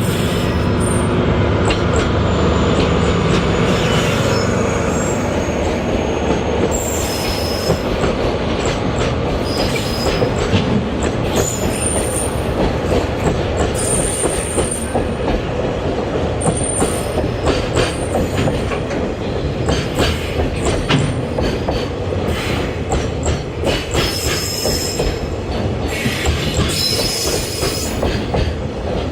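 Freight train passing: a heavy low rumble for the first few seconds, then a long run of wagons clattering over the rail joints, with short high-pitched wheel squeals here and there.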